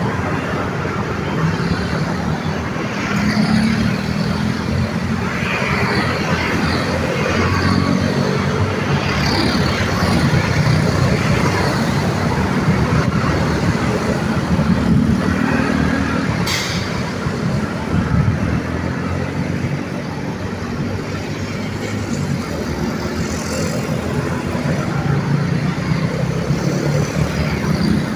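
Busy road traffic passing steadily: engines of cars, motorcycles, trucks and buses running close by and rising and falling as they pass, with a short sharp hiss about two-thirds of the way through.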